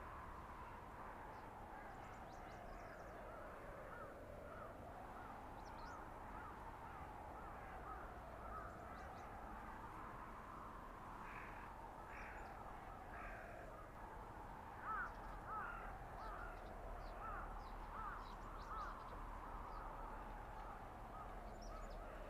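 Blizzard wind howling through a winter forest, its pitch slowly rising and falling every few seconds. A bird calls three times about halfway through, over faint small chirps.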